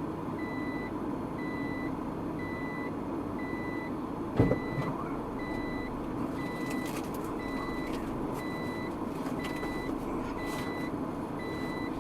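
Electronic warning beeper sounding once a second, each beep about half a second long, over steady vehicle road rumble. A single loud thump comes about four and a half seconds in.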